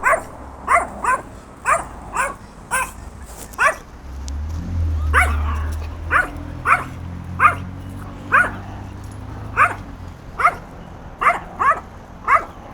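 A dog barking repeatedly in short, sharp barks, one or two a second, at an unfamiliar animal. A low rumble runs under the barks from about four to ten seconds in.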